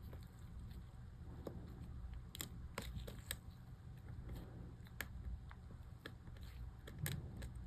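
Scattered small plastic clicks and taps, irregular and a second or so apart, from handling and fitting MacBook keycap scissor-clip pieces, over a low steady hum.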